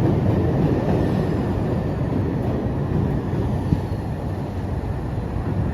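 Chicago 'L' rapid-transit train running on the track, a steady low rumble of wheels and car body heard from inside the car, with a single small click a little past the middle.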